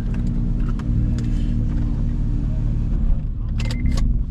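Car engine idling steadily with a low rumble, with a few sharp clicks near the end.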